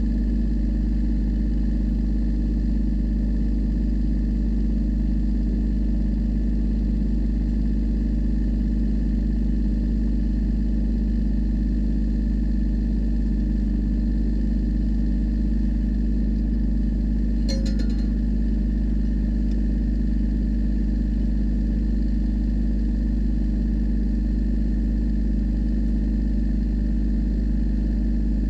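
Tractor engine running steadily at a constant speed, with a single brief click about two-thirds of the way through.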